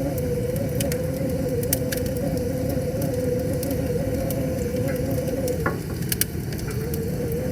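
Wood fire crackling with frequent sharp pops over a steady rushing noise, with a wavering hum that drops out for a moment about five and a half seconds in.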